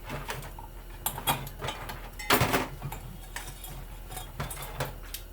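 Metal clinks, knocks and scraping of hand tools working apart a ceiling fan's metal housing, irregular, with the loudest group of knocks about two and a half seconds in, over a faint steady low hum.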